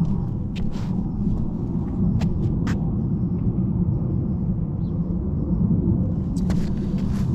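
Wind buffeting the microphone, a heavy steady rumble, with a few sharp clicks and taps on top, several of them close together near the end.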